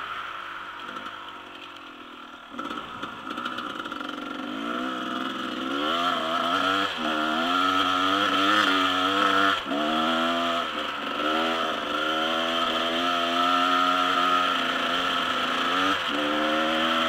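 Dirt bike engine being ridden. It eases off and goes quieter at first, then revs up again about two and a half seconds in and rises and falls in pitch over and over as the throttle is worked and the gears are changed.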